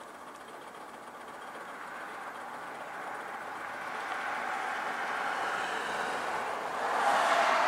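Diesel-hauled freight train approaching, its engine and wheel noise growing steadily louder, with a further rise in loudness near the end.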